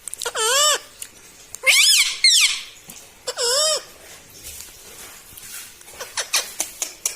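Rose-ringed parakeet (pet ringneck parrot) giving a series of short calls, each arching up and then down in pitch: one near the start, two in quick succession about two seconds in, another in the middle, and fainter ones near the end.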